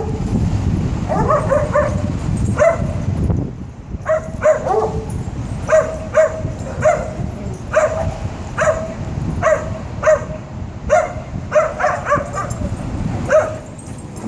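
A dog barking in short, evenly spaced barks, about one a second through most of the stretch.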